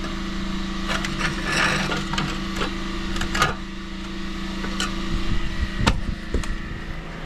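Steady hum of an idling pressure-washer engine, with irregular knocks and a short stretch of scraping, like metal and grit being moved over a hard surface.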